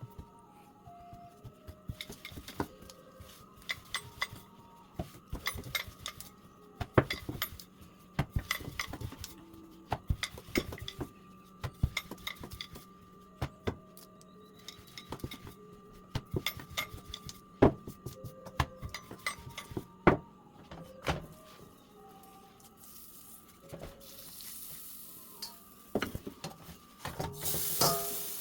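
Potato roti frying in butter and oil in a hot pan, sizzling, with many sharp clicks and clinks of a utensil against the pan. Near the end the hiss grows louder as oil and butter spill and sizzle.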